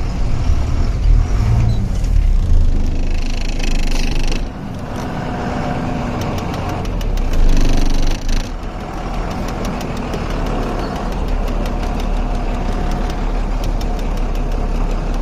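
Truck's diesel engine running under load while manoeuvring, then settling to a steadier, quieter run about four seconds in, with a brief louder rush of noise near eight seconds.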